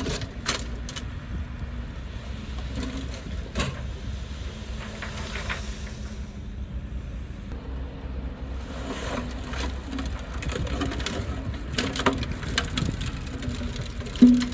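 Heavy earthmoving machine's diesel engine running with a steady low rumble, with scattered sharp cracks and knocks and a brief squeal near the end.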